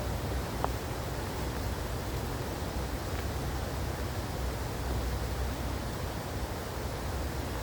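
Steady rushing outdoor noise, an even hiss with a low, wavering rumble underneath.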